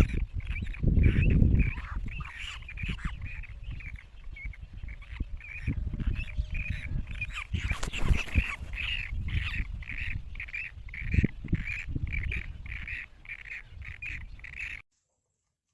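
Nestling birds at the nest calling over and over to be fed, short calls at about two or three a second, under a low rumble that is loudest in the first couple of seconds. The calls stop abruptly just before the end.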